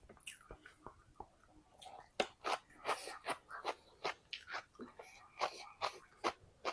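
Close-miked chewing of food by a person eating, with crisp crunching bites. A few faint mouth clicks at first, then steady chewing at about two to three crunches a second.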